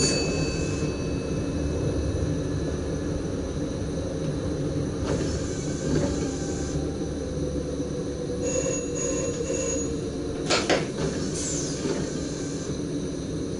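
Running rumble of an SGM Sprinter electric multiple unit heard from inside the driver's cab, its wheels knocking over rail joints and points a few times, with brief high-pitched wheel squeal at the start and again past the middle.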